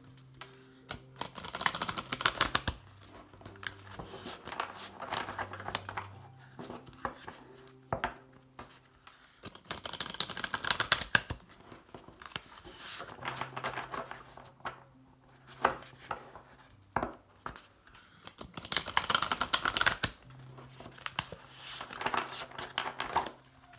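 Oracle cards from an Animal Spirit Guides deck being shuffled by hand: three bursts of rapid card riffling, each about a second and a half long and several seconds apart, with scattered quieter clicks of the cards being handled in between.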